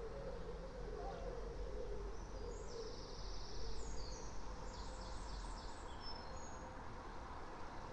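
A songbird sings a run of short, high notes starting about two and a half seconds in and lasting some three seconds, over a steady low hum of distant traffic.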